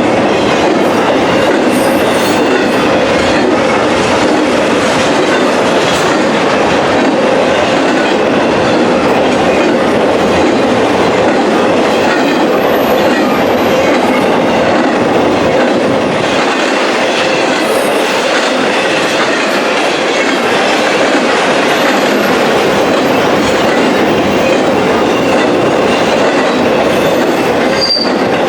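Freight train rolling past at close range: steel wheels running over the rails in a loud, steady rush with clickety-clack.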